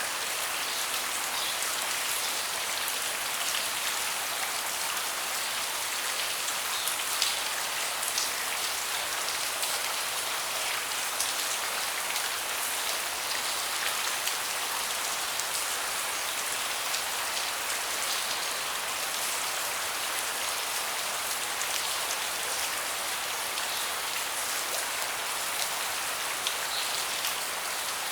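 Steady rain falling on a wooden deck, with many separate drops pattering close by.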